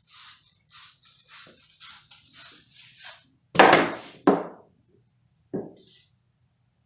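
Hand-tool work: a run of short rasping strokes, about two a second, then two loud knocks and a softer third one.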